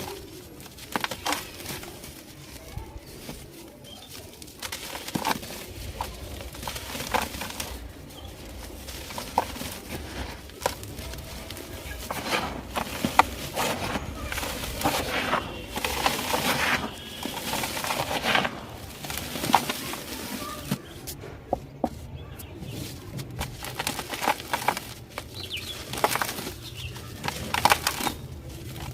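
Dry, dusty crunchy material crumbling and crushing, with dense irregular crackles and small snaps.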